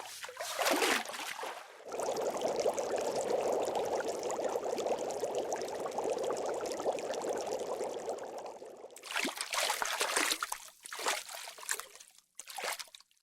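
Water splashing, then pouring steadily for several seconds, then splashing again in short irregular bursts.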